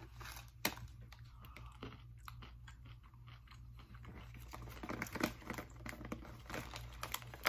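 Someone chewing candy-coated chocolate Smarties: a run of small, irregular crunches and clicks, getting busier and louder about two-thirds of the way through.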